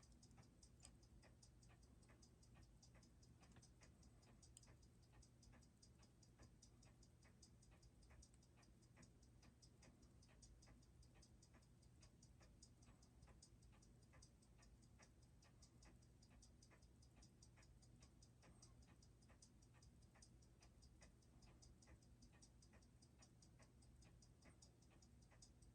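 Faint, rapid, even ticking of a Seiko 6R15 automatic watch movement's escapement. The movement is running with beat error that is still being regulated out.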